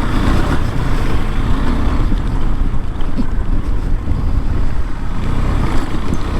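KTM 390 Adventure's single-cylinder engine running as the motorcycle rides along a muddy trail, with wind buffeting the microphone.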